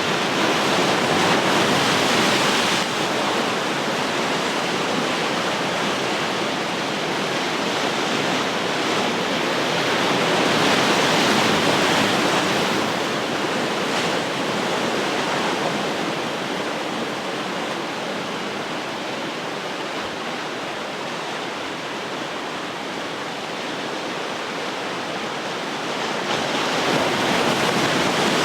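Ocean surf breaking on the shore: a continuous rush of water that swells and fades as waves come in. It is louder near the start, again a third of the way through and near the end, and softer in between.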